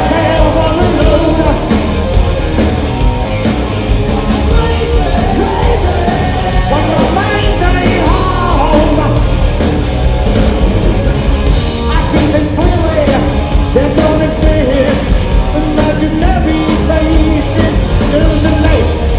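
Live rock band playing loud, with a singer's voice over the band and steady drum hits.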